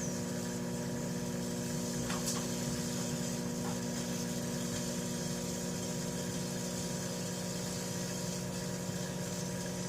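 Microwave oven running with a steady electrical hum while a metal toy car cooks inside, with a couple of faint crackles a few seconds in.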